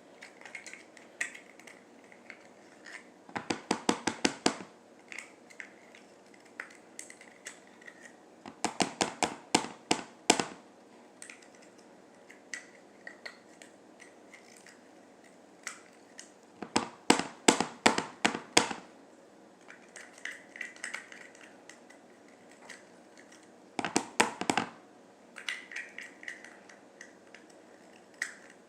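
Bursts of quick hard knocks, about five a second, from a glue container and utensils against a bowl as glitter glue is worked out for slime. The bursts come every five seconds or so, with faint handling sounds between.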